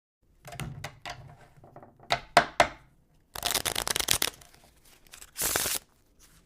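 Playing cards being handled: a few light clicks, then several sharp snaps. After that comes about a second of rapid fluttering, like cards being riffled, and a short swish near the end.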